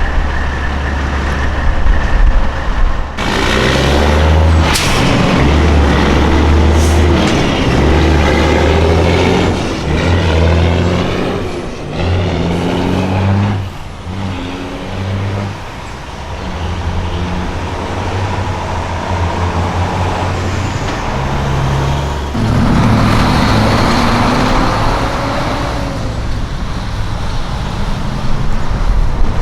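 Diesel semi-truck engines pulling past and shifting through gears, the engine note climbing and dropping back at each shift. A loud truck comes in about three seconds in, and another rises near the end.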